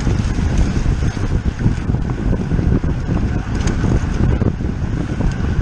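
Steady, loud wind rush buffeting the microphone of a camera carried on a racing bicycle at speed.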